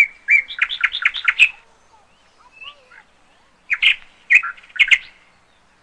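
A bird chirping: a fast run of sharp, high-pitched chirps, then a pause, then a second shorter run about four seconds in.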